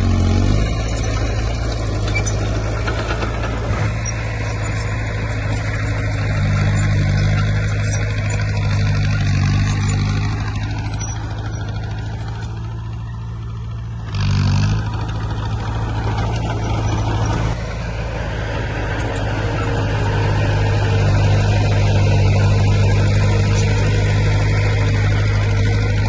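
Heavy diesel earthmoving machinery running under varying load: a steady low engine drone that eases off about halfway through, with a short loud burst just after, then builds up again.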